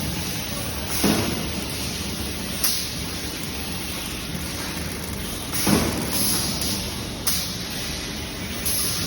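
Steady industrial noise from a robotic welding line, broken by five short, sharper bursts of hiss at uneven intervals.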